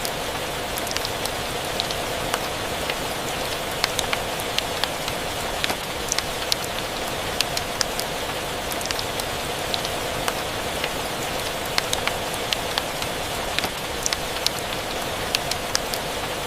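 Steady rain ambience with scattered sharp pops and crackles from a wood fire in a fireplace, irregular and several a second at times.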